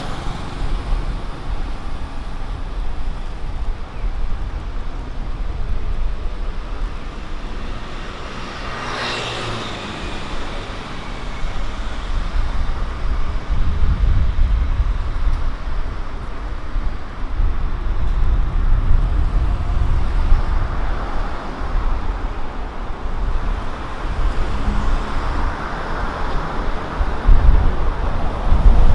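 Road traffic on a city street: cars driving past with a steady low rumble, one passing close about nine seconds in, its sound swelling and then falling away.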